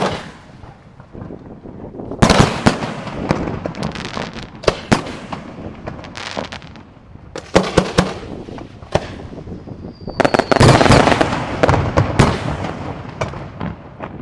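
Aerial fireworks display: repeated shell bursts with dense crackling in several waves, the longest and loudest wave about ten seconds in. It is preceded by a brief faint whistle.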